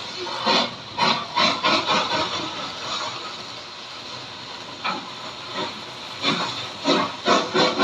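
Steam locomotive sound-effects record playing: steam hiss and exhaust chuffs in irregular bursts, a quick run of them about a second in and more near the end.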